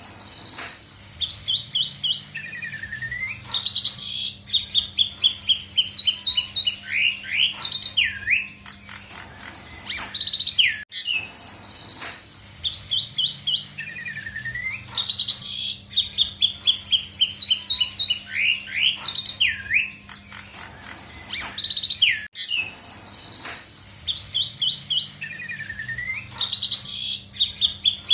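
Asian pied starling (jalak suren) singing loud, varied song full of mimicked phrases: clear whistles, quick descending trills and swooping notes. The same sequence of phrases comes round again about every eleven seconds.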